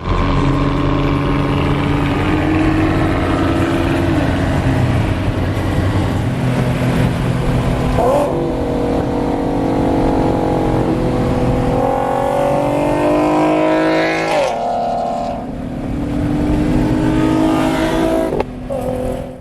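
A car engine accelerating hard. Its pitch climbs through the gears, dropping at a shift about eight seconds in and again about fourteen seconds in, then it runs on steadily.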